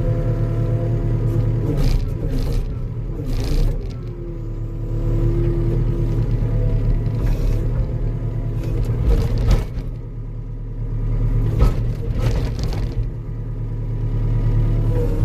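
Diesel engine of a compact earthmoving machine running steadily, with a whining tone that rises, falls and drops away as the machine works. There are several short knocks along the way.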